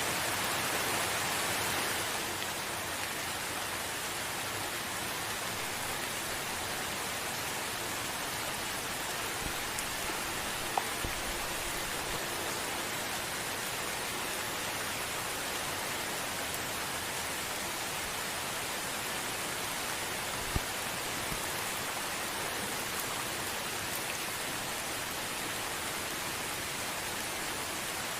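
Gentle steady rain, an even hiss, a little louder for the first two seconds and then settling. Two single sharp ticks stand out, about eleven and twenty seconds in.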